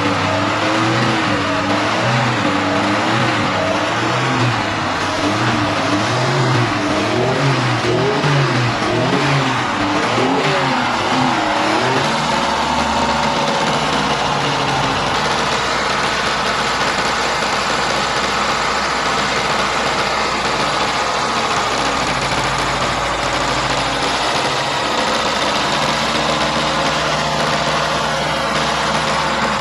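A WWII Chevrolet truck's six-cylinder engine running after being started, revved up and down repeatedly and then settling to a steadier, lower idle about twelve seconds in.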